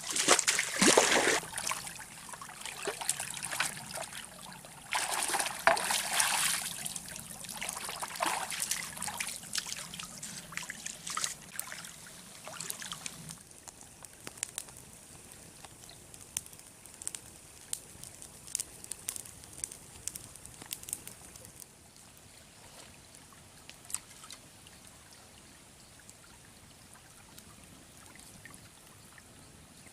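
Water trickling and splashing, in loud spells during the first dozen seconds, then settling into a quieter trickle with scattered small clicks.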